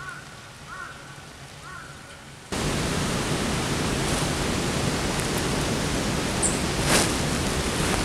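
Faint small-bird calls, short rising-and-falling notes about once a second, over quiet forest air; about two and a half seconds in, a loud steady rushing noise cuts in suddenly and covers everything.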